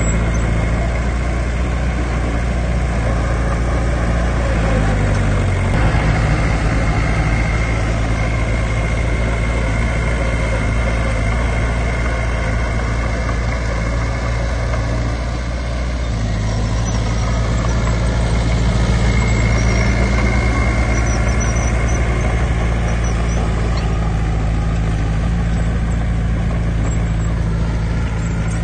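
Heavy diesel engine of earthmoving machinery running continuously. Its engine speed changes about six seconds in and again about sixteen seconds in, with a faint high whine at times.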